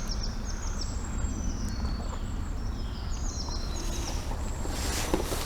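Small birds calling with repeated short, high chirps over a steady low rumble.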